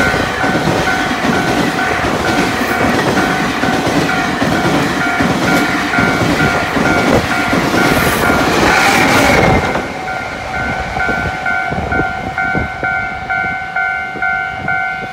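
Taiwan Railways Tze-Chiang express trains passing at speed close by, a dense rumble and clatter of wheels on rail, over a level-crossing warning bell ringing in a steady repeating pattern. The train noise stops about ten seconds in, leaving the crossing bell ringing on its own.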